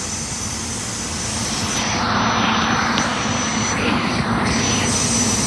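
SEPTA Silverliner IV electric multiple-unit train running past, a steady rush of wheel and motor noise with a low hum that swells about two seconds in.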